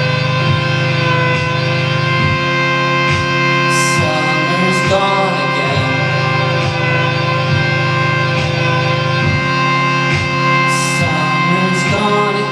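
Live band playing an instrumental stretch of a song: sustained chords held over a steady beat, with a cymbal-like crash now and then.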